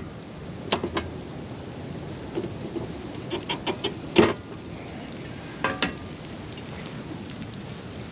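Steady hiss of wind and falling sleet, broken by a scatter of sharp knocks and clicks, the loudest about four seconds in.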